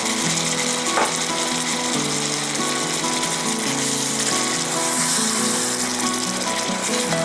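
Chicken and sliced onions sizzling in hot gravy in a kadai while a wooden spatula stirs them through, with a brief knock about a second in. Background music plays throughout.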